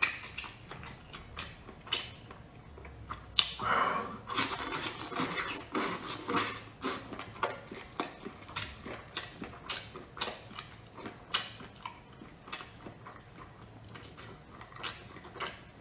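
Close-up chewing of canned octopus tentacles, described as crunchy: irregular wet smacking and crisp clicks from the mouth, denser and louder for a couple of seconds about four seconds in.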